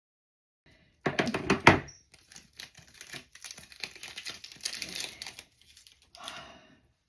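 Butter cookie tin being opened and its wrapping handled: a cluster of loud clicks and crinkling about a second in, then lighter crackling and tapping, with another short rustle near the end.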